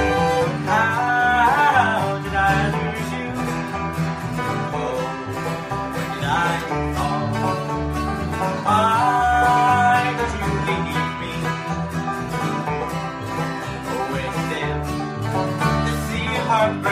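Instrumental break of a bluegrass-style country song: a band of plucked strings with banjo and guitar, and a lead line that slides and bends between notes a few times.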